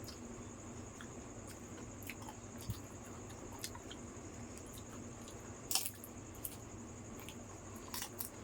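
Wet, squishy chewing of yogurt-filled fuchka, with scattered small clicks and crunches, the loudest about six seconds in and a couple more near the end, over a faint steady high whine.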